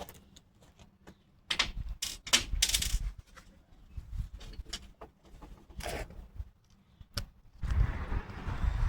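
Clicks, knocks and rattles of loose metal door latch hardware being handled and worked off a metal door, in bunches about two seconds in and again near six seconds. Near the end a denser rustling rumble of handling starts.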